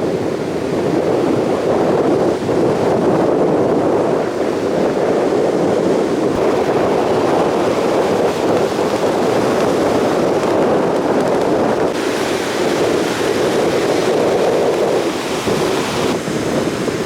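Heavy surf from a rough, wind-driven sea breaking on the beach, with strong wind buffeting the microphone. It is a continuous loud rush, and about twelve seconds in it turns hissier for a few seconds as a wave washes in.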